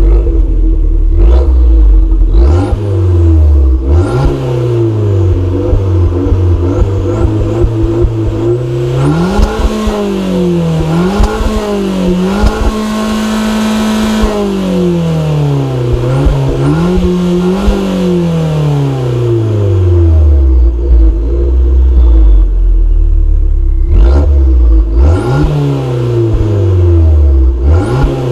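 Abarth 595 Turismo's turbocharged 1.4 T-Jet four-cylinder being revved. After quick blips from idle it holds at mid revs, then climbs and is held at its highest revs for a couple of seconds around halfway, near the limiter. It revs again, drops back to idle, and gives more quick blips near the end.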